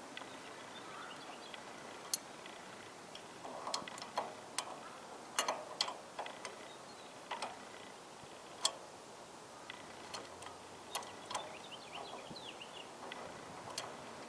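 Irregular light clicks and taps, about a dozen spread unevenly, with faint high chirps near the end.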